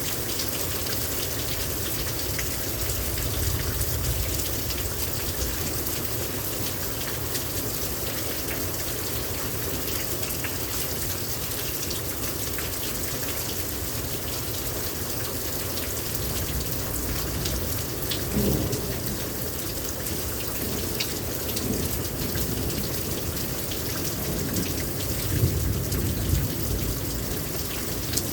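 Heavy rain pouring down steadily, with low rumbles of thunder swelling up a few seconds in and again near the end, and a shorter rumble about two-thirds of the way through.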